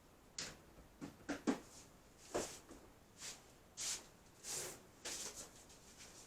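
A string of short rustles, scrapes and light clicks of things being handled, about a dozen in six seconds.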